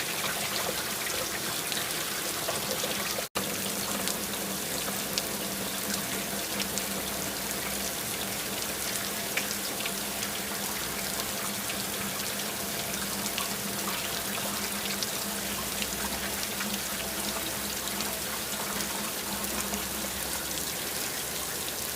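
Steady rain with a dense patter of drops, cutting out for an instant about three seconds in.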